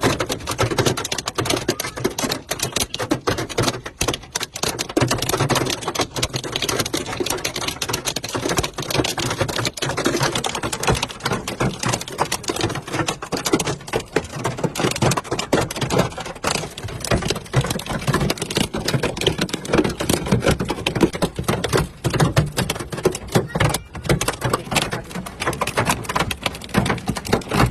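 Hailstones pelting a car's body and glass, a dense, irregular clatter of countless small hits, heard from inside the car.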